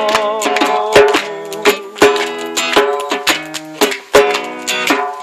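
Acoustic guitar strumming chords in a steady rhythm with djembe hand drum, an instrumental passage of a folk-pop song; a last sung note wavers and fades near the start.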